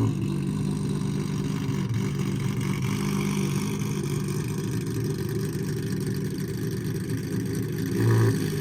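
Car engine running at a steady speed, a constant drone, with a brief louder swell about eight seconds in.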